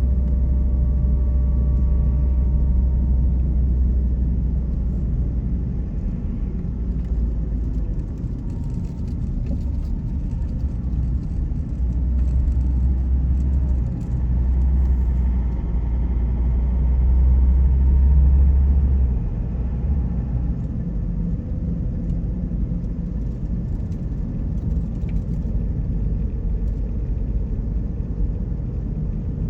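A car driving on the road: a steady low rumble of road and engine noise, swelling a little about two-thirds of the way through.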